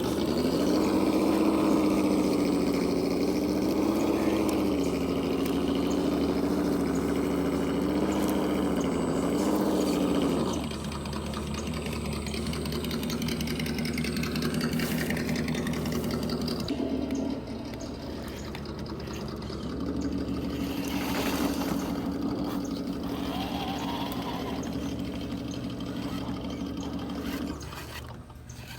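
RC crawler's engine sound simulator playing a simulated engine note through its small speaker. For about ten seconds the note rises and falls with the throttle, then it settles into a lower, steadier running note. It drops out for a couple of seconds past the middle, then comes back and runs until near the end.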